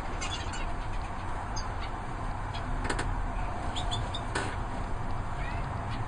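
Canaries in an aviary giving scattered short chirps and calls over a steady low background noise, with a couple of sharp clicks.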